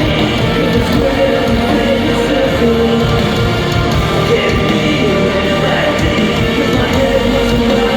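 Live rock band playing at loud concert volume, with distorted guitars, drums and bass, as captured by an audience member's phone in an arena.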